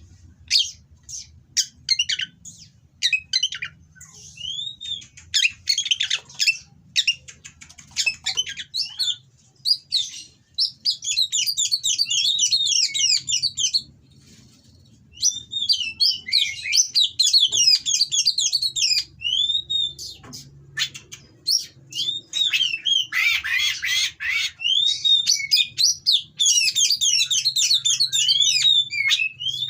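Oriental magpie-robin (kacer) singing a harsh, varied song: short clicking notes and separate chirps, broken by several dense, fast runs of quick rising-and-falling notes, with brief pauses between phrases.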